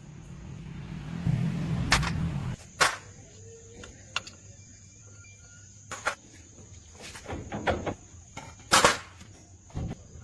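A series of irregular sharp knocks and clicks, about eight in all, over a faint steady high whine and a low rumble that stops about two and a half seconds in.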